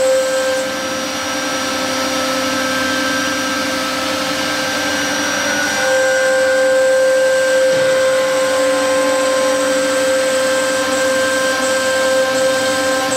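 3.5 kW air-cooled spindle of a 1325 CNC router running and cutting fiberboard: a steady high whine over a rushing hiss.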